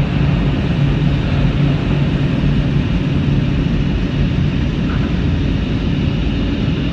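Automatic car wash machinery running, heard from inside the car: a steady rush of water spray and brushes over a constant low motor hum.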